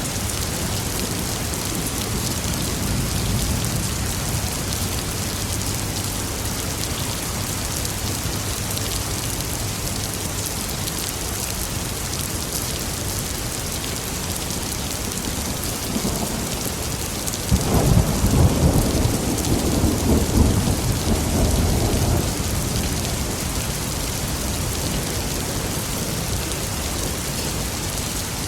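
Steady heavy rain with a rolling thunderclap past the middle that starts sharply and rumbles for about four seconds before fading. A fainter rumble of distant thunder comes early.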